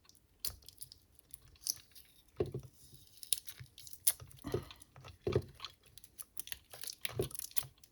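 Metal tabs on a rechargeable battery cell being bent and tugged by hand: irregular small crackles and clicks with a few dull knocks. The tabs hold rather than snap and tear away from the base of the cell.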